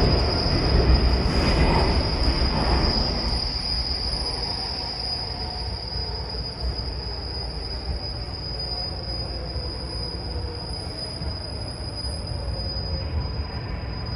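MARTA rail car heard from inside: a heavy rumble of wheels on rail that eases over the first few seconds and then runs on steadily, with a constant high-pitched whine above it.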